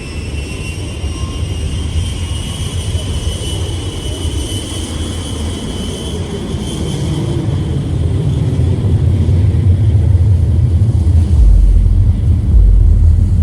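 An engine's deep rumble building steadily louder, with a high whine that climbs slowly in pitch.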